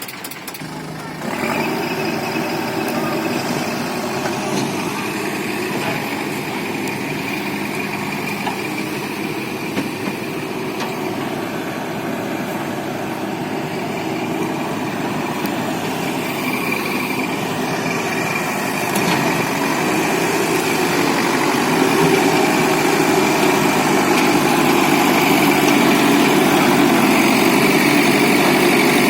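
Mahindra 235 DI tractor's diesel engine running steadily, stepping up in level about a second in and growing gradually louder in the second half.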